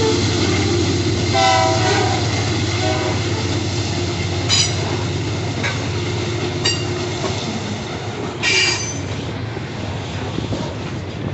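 A train running slowly through a rail yard: a steady low locomotive rumble with wheels on the rails, a brief horn tone about a second and a half in, and short high wheel squeals about four and a half, six and a half and eight and a half seconds in.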